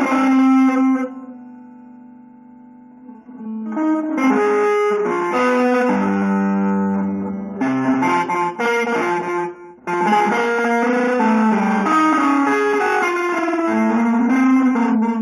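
Guitar playing quick single-note lines; about a second in a note rings out and fades away, then fast runs start again, broken by two short pauses midway.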